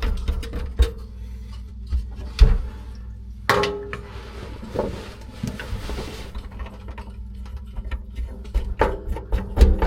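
Knocks and clatter of faucet parts and tools being handled. There is a sharp knock about two and a half seconds in and a louder one with a brief metallic ring about three and a half seconds in, over a faint steady hum.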